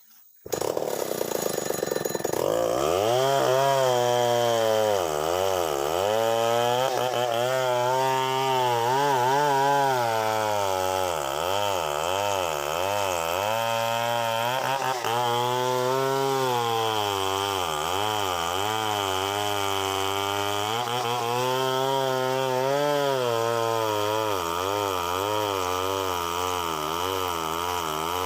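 Two-stroke chainsaw running and cutting into a tree, its engine pitch dipping and rising again and again as the chain loads in the cut. It starts abruptly about half a second in.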